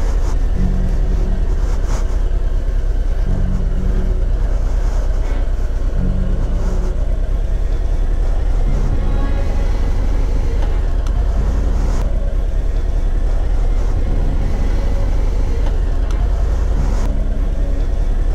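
Harley-Davidson Ultra Limited's V-twin engine running as the loaded motorcycle pulls away and rides slowly, a steady low rumble with a few brief knocks.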